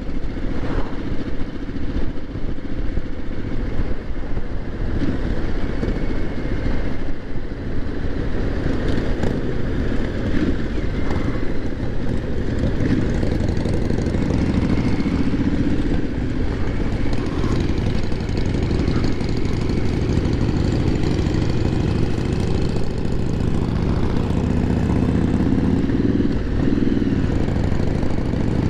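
Triumph motorcycle engine running steadily at a gentle cruising pace, with wind rushing past and the other escort vehicles close by.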